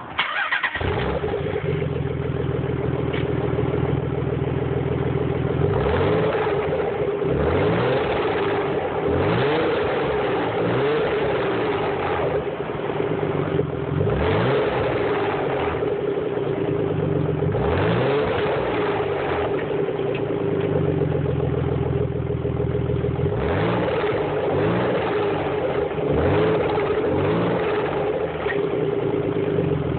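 Nissan 300ZX twin turbo's 3.0-litre V6 engine being revved in repeated short blips, each rise in pitch falling back to a steady idle between them.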